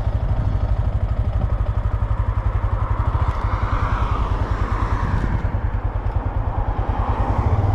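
Motorcycle engine idling with a steady, even pulse while the rider waits for traffic to clear.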